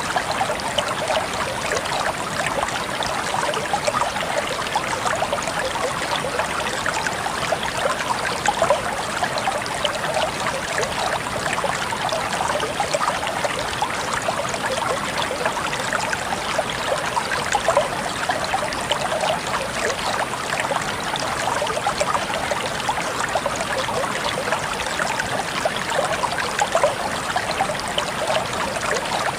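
Flowing water of a stream, a steady babbling and trickling over stones.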